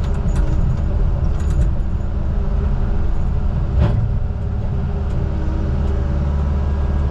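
Diesel engine of heavy logging equipment running steadily, with a single sharp knock near the middle.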